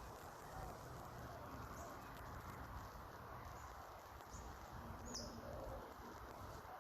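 Faint outdoor background noise with a few short, high bird chirps scattered through it; the cockatoo itself is not screeching.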